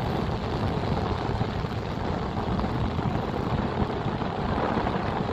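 Voltas inverter air conditioner running with a loud, rough, steady rumbling noise, the abnormal sound the unit is being checked for. It starts and stops abruptly.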